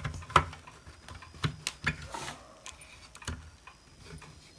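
Scattered light clicks and taps, about half a dozen, with one short scrape a little after two seconds in: small tools and metal parts being handled while a hot air rework station is taken apart.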